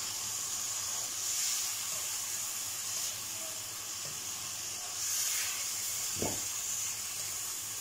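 Chicken, diced capsicum and onions sizzling in oil and tomato masala in a non-stick wok as a spatula stirs them: a steady high hiss that swells twice, with one soft thump about six seconds in.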